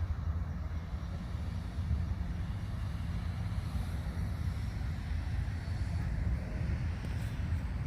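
Steady low rumbling noise that wavers slightly in level, with no distinct events.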